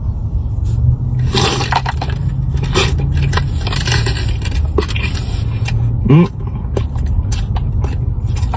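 Close-miked eating: biting into and chewing a Big Mouth Bites mini burger dipped in ranch, with irregular wet, scraping mouth noises and a short rising 'mm' about six seconds in. A steady low hum runs underneath.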